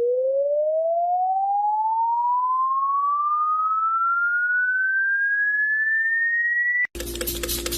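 A single pure electronic tone sliding steadily upward in pitch, like a test-tone sweep, until it cuts off abruptly about seven seconds in. A noisier sound with a steady hum and rapid clicking follows.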